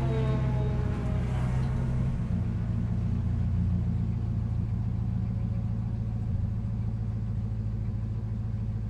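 C5 Corvette V8 heard from inside the cabin. Its revs fall in the first second, then it settles into a steady low drone at light throttle.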